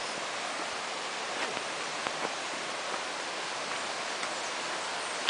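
Steady rush of running water, an even hiss with a few faint clicks over it.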